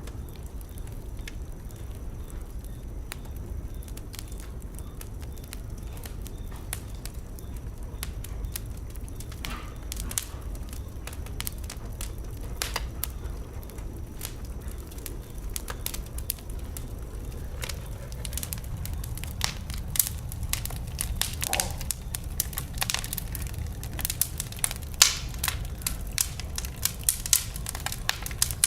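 Wood fire burning in a fireplace: a steady low rumble of flame with sharp crackles and pops from the burning logs, sparse at first and growing thicker and louder in the second half.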